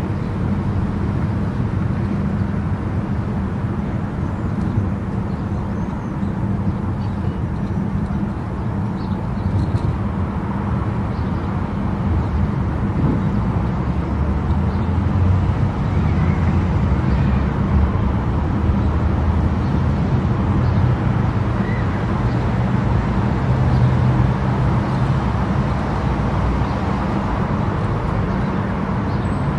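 Steady low rumble of a car driving at speed on an expressway: engine, tyre and wind noise, unbroken and slightly louder in the second half.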